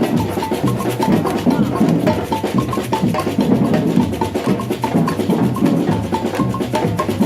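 Batucada samba percussion ensemble playing a fast, steady groove: deep drums underneath, with short, high, bell-like strokes repeating over the top.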